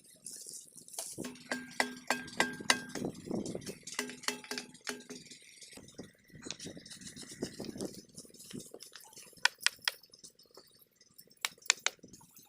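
Irregular metallic clinks and knocks, some ringing briefly, with a cluster of them in the first few seconds and more sharp clicks near the end.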